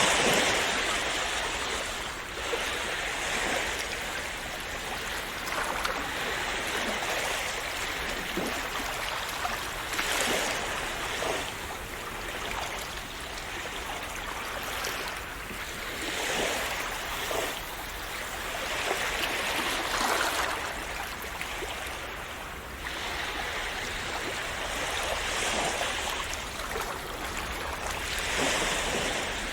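Small sea waves breaking and washing on a shore: a steady wash of surf that swells every few seconds as each wave comes in.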